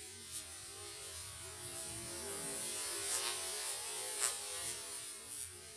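Loose powder from a dismantled firework burning in an open flare of sparks and smoke: a steady hiss that builds through the middle, with a few sharp pops, then dies down near the end.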